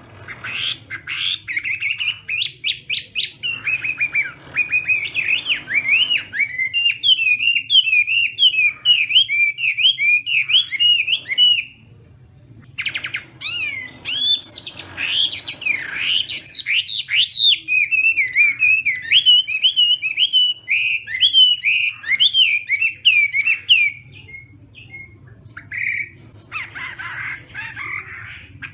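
Chinese hwamei (họa mi) in full challenge song: long runs of rapid, varied whistled notes that sweep up and down in pitch. It sings two long phrases, breaking off briefly about twelve seconds in, then gives softer, scattered notes near the end.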